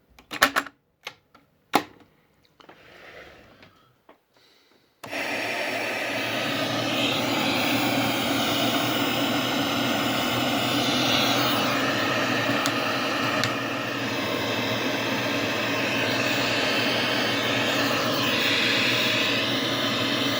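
Sound from a SHARP 5P-37G television's speaker: a few seconds of scattered clicks and brief cut-off fragments with gaps between them, then a steady, even rushing noise about five seconds in.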